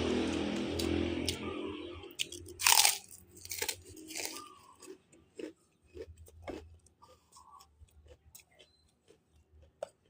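Close-up chewing and biting, with a run of crunches and wet clicks from a mouth eating grouper fish; the loudest crunch comes a little under three seconds in. A steady rushing noise with a low hum fades out over the first two seconds.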